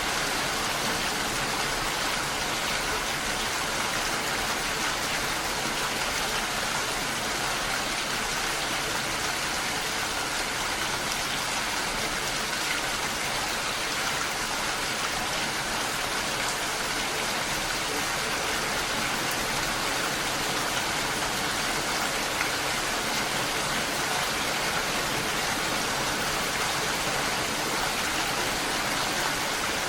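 Steady rain falling, an even rushing hiss without breaks or separate sounds.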